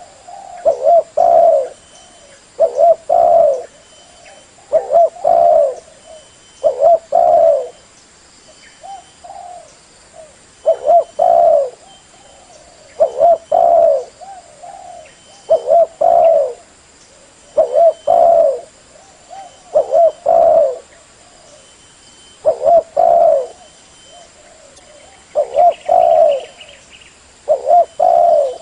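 Spotted dove (tekukur) cooing: short phrases of two or three low coos, repeated about every two seconds. A brief faint chirp from another bird comes near the end.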